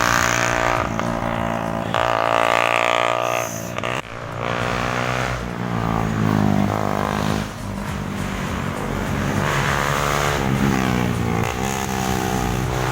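Motorcycle engines running, their pitch rising and falling several times as they rev.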